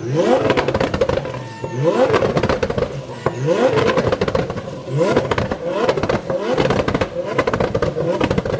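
Twin-turbo Lamborghini Huracán V10 revved repeatedly while stationary. It runs about six quick sweeps up in pitch, each dropping straight back, with sharp crackles in between. These are free-revs up toward the rev limiter during a tune.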